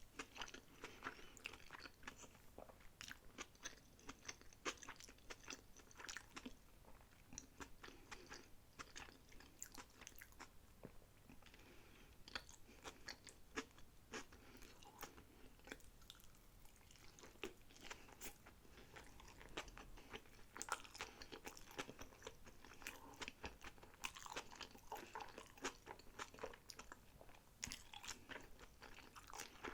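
Close-miked chewing and biting of sushi rolls: a steady run of soft, wet crunches and mouth clicks.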